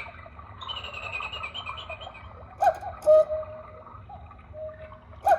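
Black Forest cuckoo clock striking twelve: a sharp click and a two-note cuckoo call, higher then lower, about two and a half seconds in, with the next click-and-call starting near the end.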